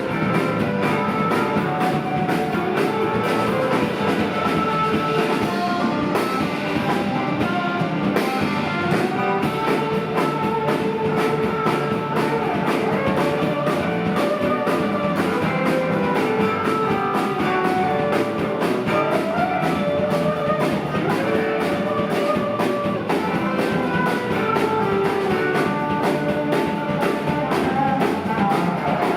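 Live rock band playing an instrumental jam with no singing: a lead guitar line moving over bass and a steady drum-kit beat.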